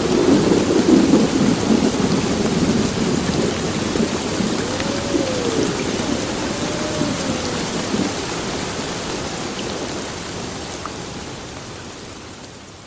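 Heavy rain pouring steadily, with thunder rumbling low through the first several seconds and dying away. The whole storm sound then fades out near the end.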